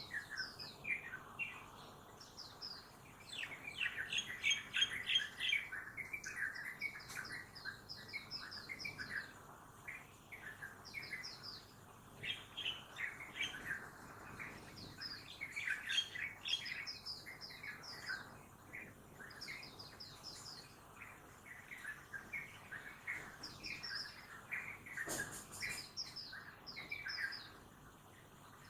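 Several small birds singing and chirping at once, fast runs of short high notes overlapping lower twittering calls, as in a morning chorus. A faint steady background hum lies beneath.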